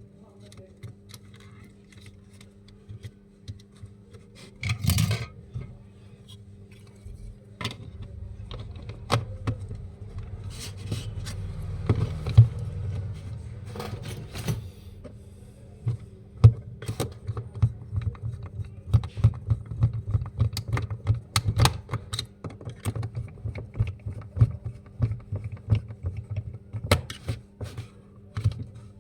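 Irregular clicks, taps and scraping of small hard objects being handled, with a louder clatter about five seconds in, over a steady low hum.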